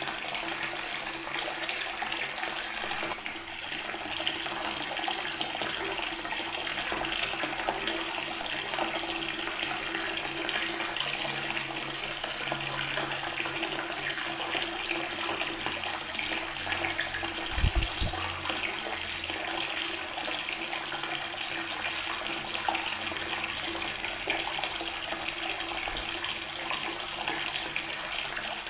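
Water running steadily from a tap and splashing onto stone. About 18 seconds in there is a brief low thump.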